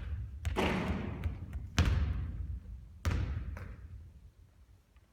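Basketball thudding on a court floor: several bounces with a ringing echo, fading toward the end.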